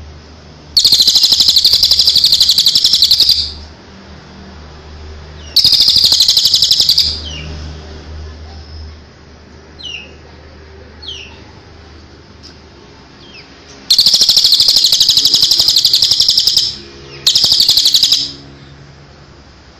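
Songbird giving four loud, very rapid trills, each one to three seconds long, about a second in, near six seconds, near fourteen seconds and near seventeen seconds. Short falling chirps come between the trills.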